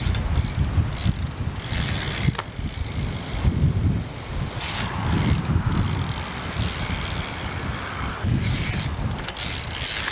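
BMX bike ridden at a ramp: the rear hub's freewheel ratchets as the bike coasts, over a low rumble with several hissy surges.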